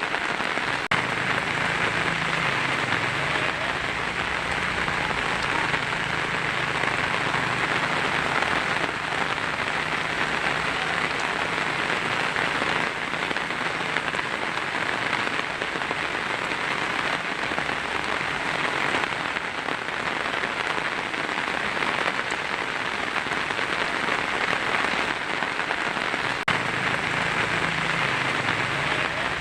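Heavy rain drumming steadily on a tin roof: a dense, even patter with no break.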